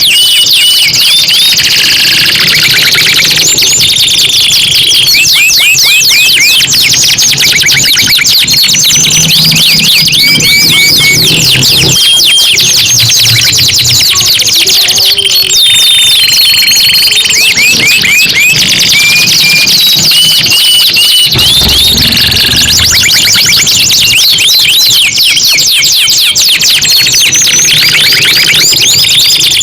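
Domestic canaries singing continuously in fast, rolling trills, mixed with short held whistled notes, loud and high-pitched throughout.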